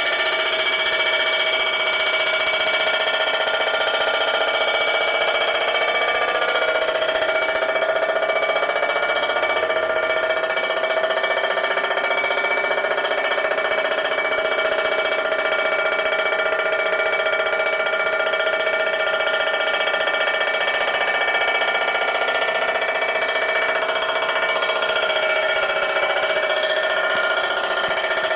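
A machine-tool cutter taking a slow-feed cut through plated metal: a steady, ringing cutting noise with several held tones that shift slightly in pitch.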